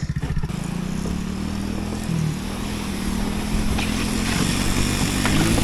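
Small engine going from a pulsing idle into a steady run as it pulls away with a towed sled, getting louder and a little higher in pitch near the end.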